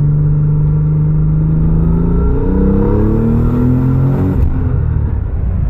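1990 Nissan 300ZX Twin Turbo's 3.0-litre twin-turbo V6 accelerating through its custom 2.5-inch exhaust with Magnaflow mufflers. The revs climb, drop at an upshift about two seconds in, climb again, then fall away about four and a half seconds in.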